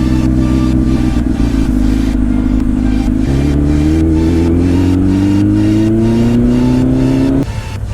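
Inline-four engine of a 2007 Kawasaki ZX10R with a full Two Brothers exhaust, pulling in gear. About three seconds in, the pitch drops as it shifts up, then rises steadily as the bike accelerates, and the sound cuts off suddenly near the end.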